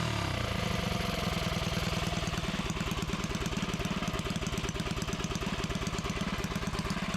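Predator 212 single-cylinder engine, freshly built, running steadily at a constant speed with rapid, even firing pulses. This is its first run after the build, the start of its break-in.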